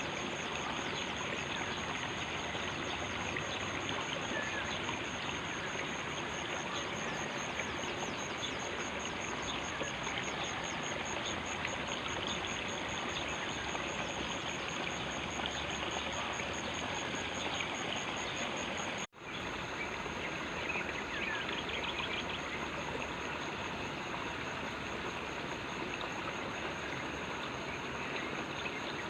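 Stream water running steadily, with a high, steady pulsing buzz above it. The sound cuts out for an instant about two-thirds of the way through.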